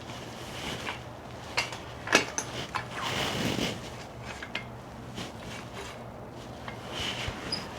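Scattered light knocks and clinks of tools and metal parts being handled, with a brief rustle about three seconds in, over a steady low hum.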